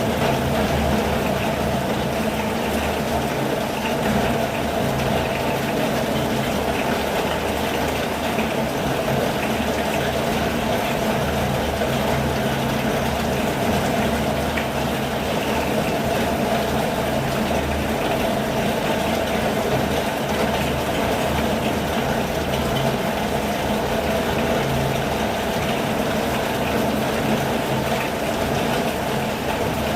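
Steady rain falling: an even, unbroken hiss with a low, wavering rumble underneath.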